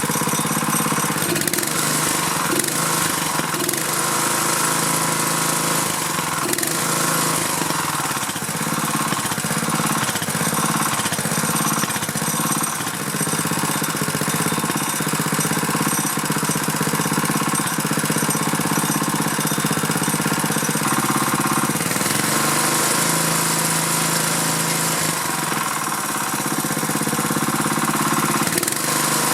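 Small four-stroke go-kart engine running, its speed repeatedly dipping and picking back up over the first dozen seconds, then running more steadily with one more change in speed about two-thirds of the way through.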